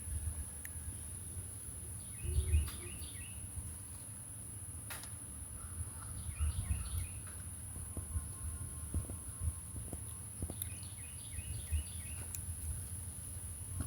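A bird outside sings the same short chirping phrase three times, about four seconds apart. Under it runs a steady low hum, with a steady high whine above.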